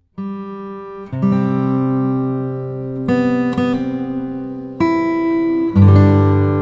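Background music: acoustic guitar chords, each left ringing for a second or two before the next is played.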